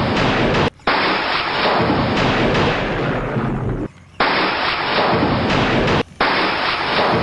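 Heavy rain, a loud steady hiss, cut off abruptly and resumed three times.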